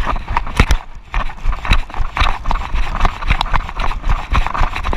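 Running footsteps heard from a camera carried by the runner: quick, uneven thuds about two to three a second, with the camera and gear jolting.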